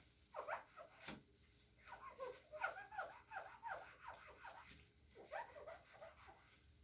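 Faint runs of quick, short squeaks with some squishing, typical of a wet, soapy cleaning sponge being squeezed and wrung. The squeaks come thickest about two to four seconds in.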